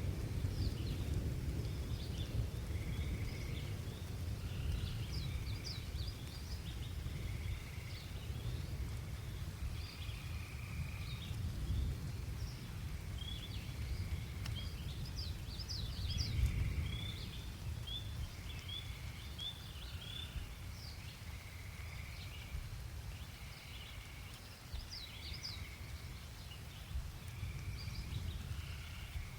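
Birds chirping in many short, high calls, with one short call repeated about every second and a half, over a low rumble that swells briefly about halfway through.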